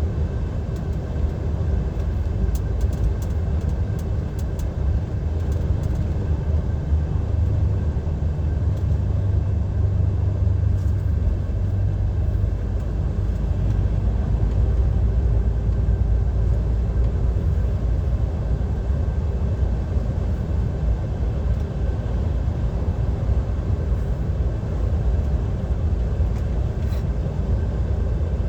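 Steady low drone of a DAF XF 530 lorry's PACCAR MX-13 straight-six diesel engine and road noise, heard inside the cab while cruising on the motorway.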